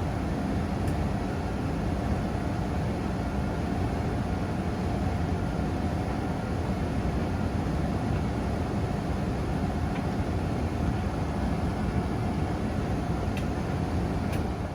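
A domestic laundry machine (washing machine or tumble dryer) running steadily, a dense, even rumble with a faint steady hum through it, cutting in and out abruptly.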